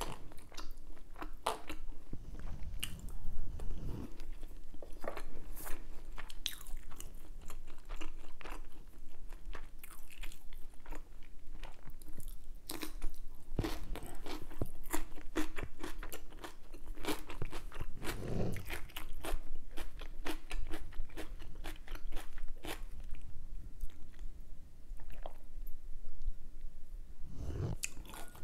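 A person chewing food close to the microphone, with irregular crisp crunches and clicks throughout.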